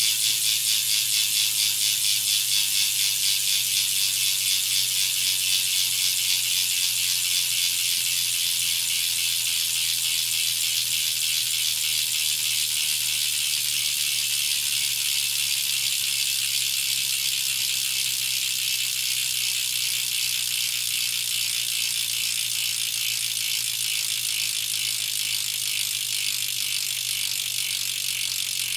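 Shadow Conspiracy BTR BMX rear hub freewheeling as the wheel spins, its pawls ratcheting in a very fast, continuous ticking buzz that eases slightly as the wheel slows.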